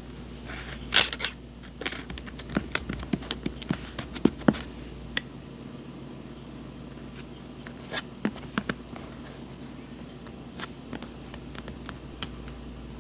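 Paper and journaling supplies being handled: a short rustle about a second in, then scattered light taps and clicks.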